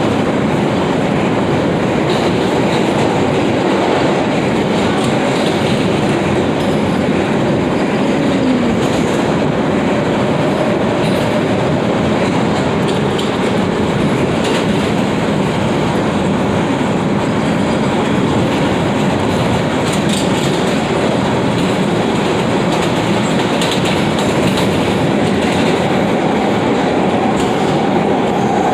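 New York City subway F train running at speed between stations: a steady loud rumble with wheels clacking over the rails and a few faint, brief wheel squeals.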